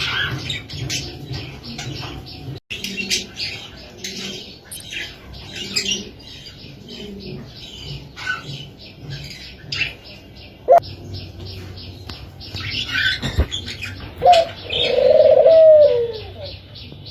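Captive doves calling, with many short high chirps all through and a drawn-out coo near the end that falls in pitch as it finishes; the coo is the loudest sound.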